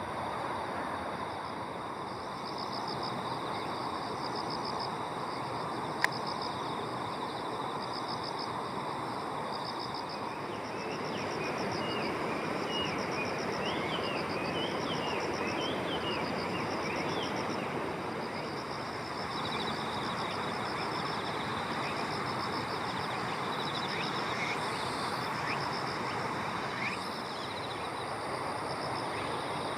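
Outdoor nature ambience: a steady rushing noise under high, pulsed calls that repeat in short runs. Brief bird chirps come through in the middle, and there is one sharp click about six seconds in.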